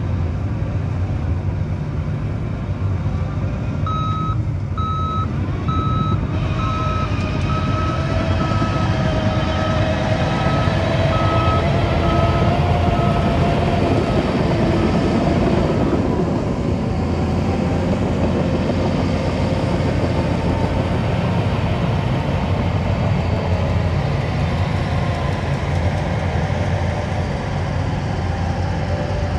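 Diesel engine of heavy earthmoving machinery running steadily under load, with a reversing alarm beeping at an even pace for several seconds before stopping about halfway through.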